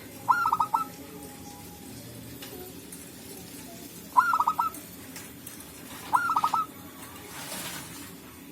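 Zebra dove cooing: three short bursts of rapid stuttering coo notes, a few seconds apart.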